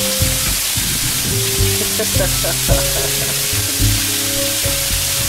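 Heavy rain pouring down in a steady hiss, with background music playing over it.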